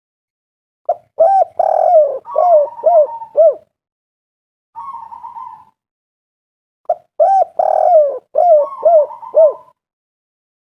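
Spotted dove (tekukur) cooing: two loud phrases of about five quick coos each, one about a second in and another about six seconds later, with a softer short call between them.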